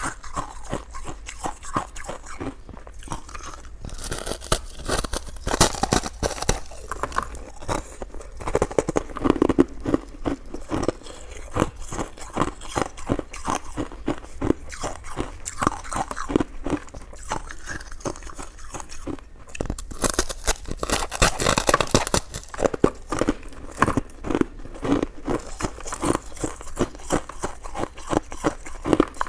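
Close-miked chewing and biting of coconut sticky rice cake, with dense, irregular mouth clicks and some crunch, louder in a few stretches.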